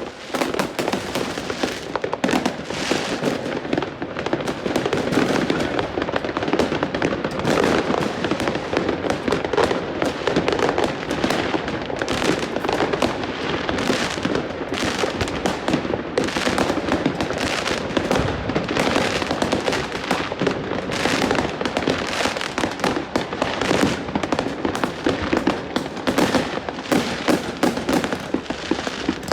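Dense, continuous barrage of fireworks and firecrackers going off, many overlapping bangs and crackles with no pause.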